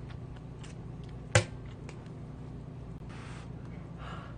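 One sharp knock of an eating utensil against a bowl about a second and a half in, over a low steady hum, with two soft breathy puffs near the end.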